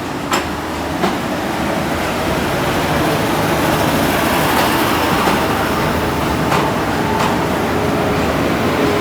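Train rolling along the track at the station, growing a little louder, with a few sharp clicks of wheels passing over rail joints.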